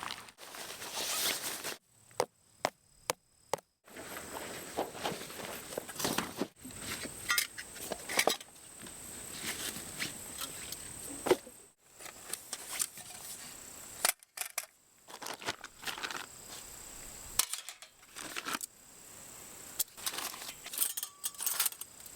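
Tent pitching outdoors: a series of sharp clicks and knocks with footsteps and rustling, broken by several abrupt cuts.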